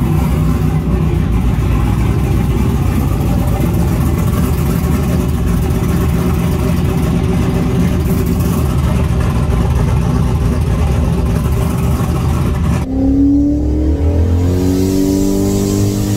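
Turbocharged 5.3-litre LS V8 idling steadily on its newly fitted Holley Terminator X fuel injection. About three seconds before the end the engine cuts off abruptly and short music with sliding notes takes over.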